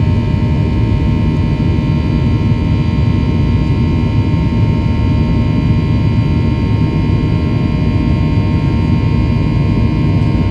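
Boeing 737-800's CFM56-7B jet engines heard from inside the cabin at steady high thrust: a loud, even roar with a set of steady high whining tones over it.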